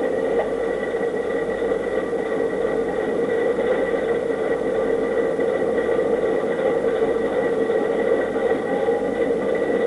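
Steady mechanical whirring hum with several constant tones, unchanging throughout.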